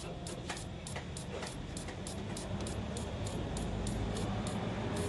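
DEF (AdBlue) dosing injector clicking in a fast, even rhythm of about five ticks a second as it sprays during a diagnostic dosing routine, over a low steady hum.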